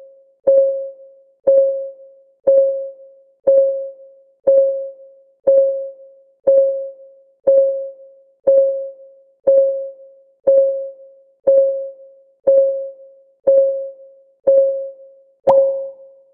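Countdown-timer clock ticking, one short tick each second, each tick a click with a brief pitched ring. Near the end the tick turns sharper and brighter.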